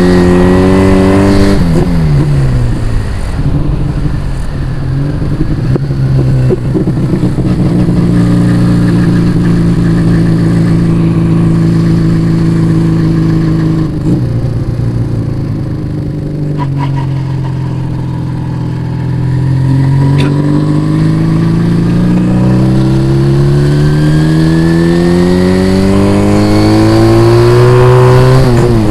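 Yamaha Vega ZR motorcycle engine with an aftermarket Arrow exhaust, under way. The revs drop about two seconds in and hold steady, ease off in the middle, then climb steadily and drop again at the end, as with gear changes.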